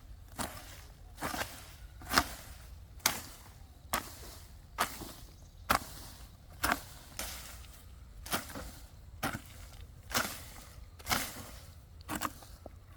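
A hand tool chopping in a steady rhythm, a little under one sharp stroke a second.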